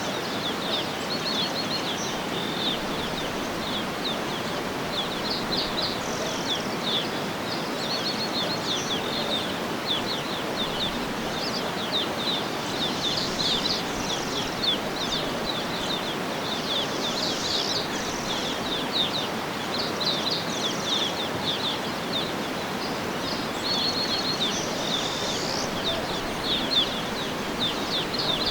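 Birds chirping in quick repeated trills over a steady hiss of outdoor background noise.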